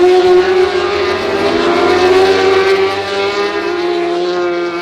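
Superbike racing motorcycle engine at high revs under throttle, one strong steady note that climbs slightly over the first couple of seconds and then eases back.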